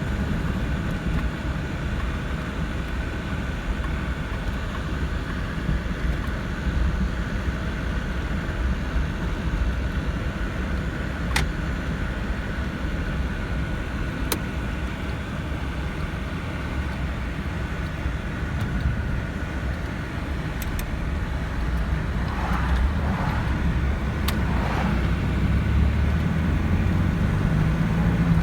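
1986 Jeep Cherokee's V6 engine running, a steady low drone with a faint steady whine above it, getting louder over the last few seconds. A few sharp clicks stand out.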